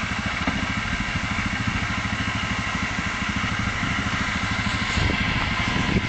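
Engine running steadily with an even, rapid firing pulse and no change in speed.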